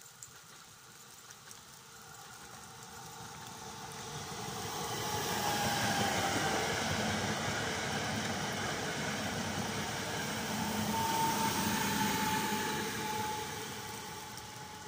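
Electric multiple unit passenger train passing on the track: its running noise builds as it approaches, stays loud for several seconds while the cars go by, and fades as it moves away. A faint steady whine runs under the noise.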